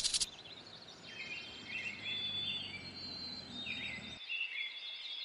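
Small birds chirping: many short, high calls with quick pitch slides, over a faint background hiss.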